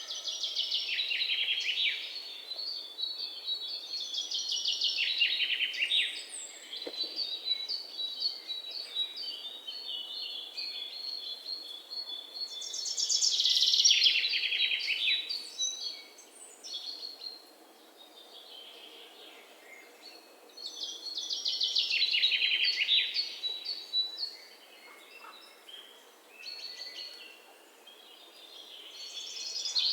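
Songbird singing: a fast trill that falls in pitch, repeated about five times several seconds apart, with thinner high chirps between the phrases.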